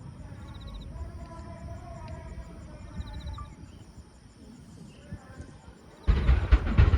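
Faint murmur of voices with insects chirping, then about six seconds in a fireworks display starts up with loud bursts and crackling.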